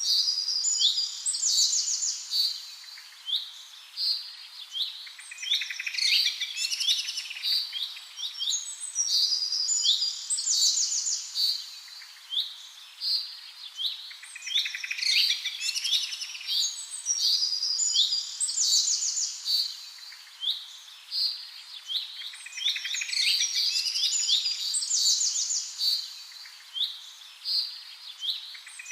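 Songbirds chirping and singing without pause: rapid high chirps, quick trills and short rising notes, several phrases overlapping.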